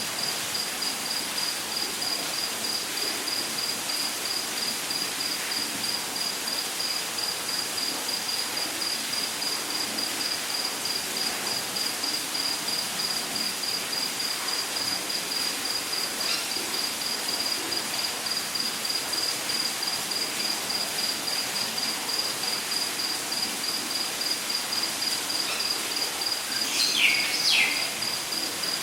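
A cricket-like insect trilling steadily at a high pitch in a rapid, even pulse over a soft hiss of rainforest ambience. Near the end, two quick downward-sliding calls, probably a bird's, stand out as the loudest sounds.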